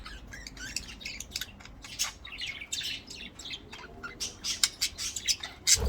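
Budgerigars chirping and chattering: a run of short, sharp chirps in quick succession, coming thicker and louder in the last second or so.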